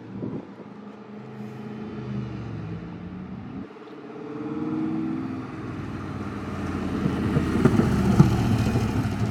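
Sports car engines pulling away. The engine pitch rises about five seconds in, then a louder car's engine builds to a peak near the end.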